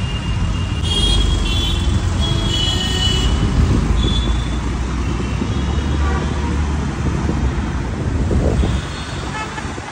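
Porsche 911 Carrera 4S engine running low and steady as the car pulls away through street traffic, amid general road noise; the engine sound drops away near the end. Car horns toot briefly several times in the first few seconds.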